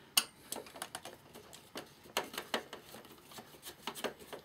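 Irregular small clicks and taps of a screwdriver and screws being worked on the metal bottom plate of a Sansui AU-X111 amplifier.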